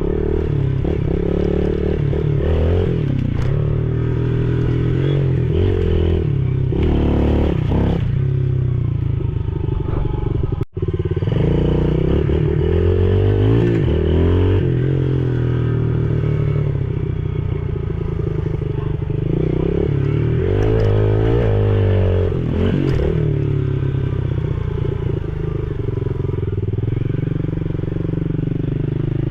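Yamaha TT-R110E pit bike's single-cylinder four-stroke engine running under way, revving up and falling back again and again as it is ridden. About a third of the way through, the sound breaks off for an instant.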